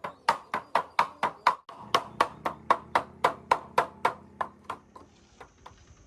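Rapid, evenly spaced knocking, about four knocks a second, dying away about five seconds in.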